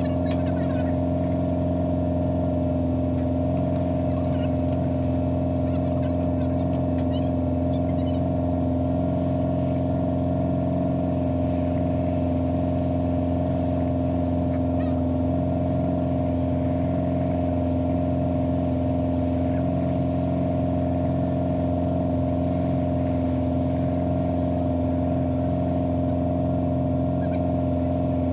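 Mazda B-series pickup's engine, fuel-injected with a Holley Sniper system, and road noise droning steadily inside the cab while cruising, with no change in engine pitch.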